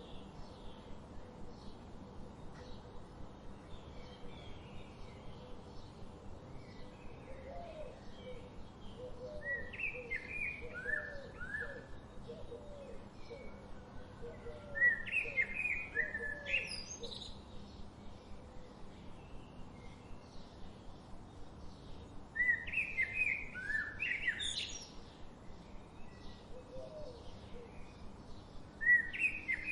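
Wild birds singing: loud bursts of quick chirping and sweeping whistled phrases come every several seconds, over a softer string of low repeated notes through the middle and a faint, even, quick ticking in the background.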